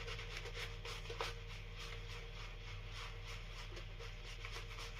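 Shaving brush working lather, with faint, irregular bristly scratching and rubbing.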